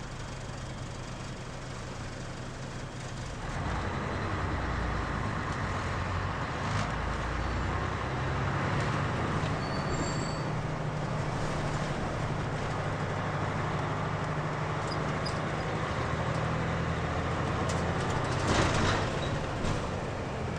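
Mitsubishi Fuso KL-MP37JK city bus's diesel engine heard from inside the cabin: idling steadily, then about three seconds in it picks up and the bus drives on under power. A short, loud burst of noise comes near the end.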